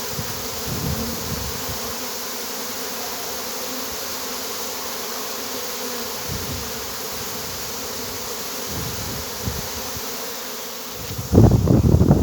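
A swarm of honeybees buzzing in a steady hum as it settles into a hive, the bees piling in and fanning at the entrance. A sudden loud low rumble breaks in near the end.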